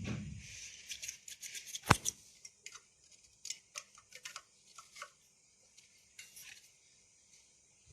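Scattered light clicks and taps of small metal parts and tools being handled during work on a vacuum cleaner motor, with one sharper knock about two seconds in.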